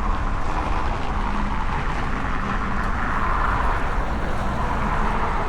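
Steady road traffic noise: a constant rushing hum with a low rumble underneath and no distinct event.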